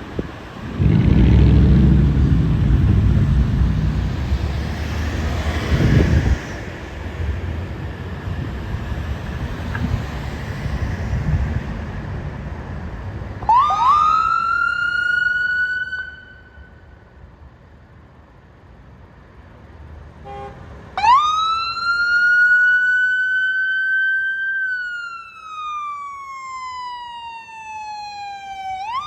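An emergency vehicle's electronic siren wailing: the pitch jumps up quickly, holds, then slides slowly down before rising again. It is preceded by a loud, low rumble of a heavy vehicle passing close by.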